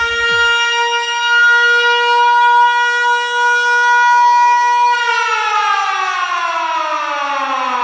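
Electronic trance mix. The kick drum drops out just after the start, leaving one held, siren-like synth tone. About five seconds in, the tone starts a slow, steady slide down in pitch.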